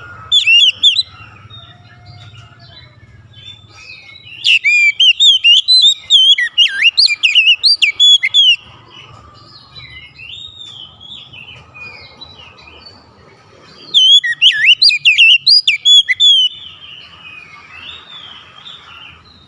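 Oriental magpie-robin singing: two long, loud bursts of rapid, varied whistled notes sweeping up and down in pitch, one about four seconds in and one near fourteen seconds in, with a short burst at the start and quieter warbling in between.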